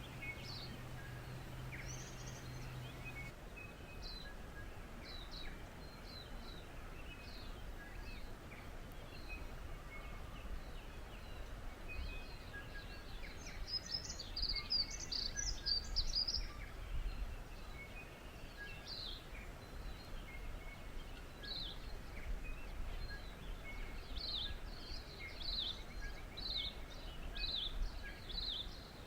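Wild birds chirping and singing in many short falling notes, busiest in the middle and toward the end, over a low, steady background rumble. A faint low hum stops about three seconds in.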